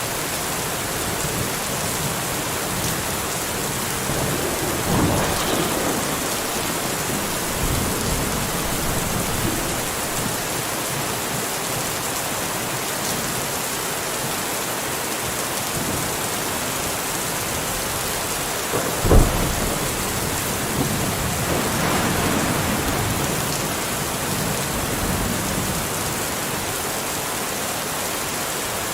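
Steady rain falling, with thunder: low rumbles swell up twice, and a sudden thunderclap about two-thirds of the way through is the loudest moment.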